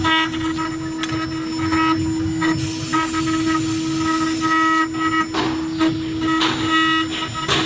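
CNC router spindle running with a steady high whine while cutting aluminum, its higher overtones coming and going in short stretches, over a low rumble. A stretch of hiss rises from about three seconds in to nearly five.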